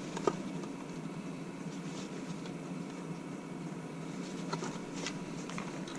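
Steady low hum with a sharp click about a third of a second in and a few lighter clicks and taps near the end.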